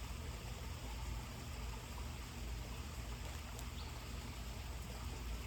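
Steady outdoor background noise: an even hiss over a low rumble, with one faint tick about three and a half seconds in.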